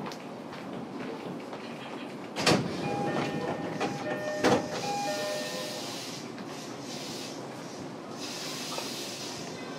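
Inside a JR East E233-series electric train car: steady rail noise with a hiss, broken by two sharp clunks about two seconds apart, with a brief whine between them.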